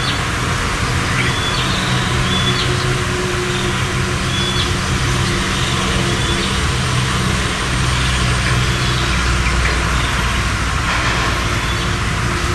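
Steady outdoor background noise with a low, even hum under it, and short high bird chirps every second or two.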